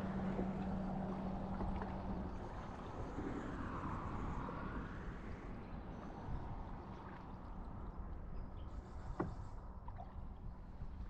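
Water gurgling and lapping around a kayak, over a low rumble of wind on the microphone. A steady low hum fades out after about two seconds, and there is a sharp knock about nine seconds in.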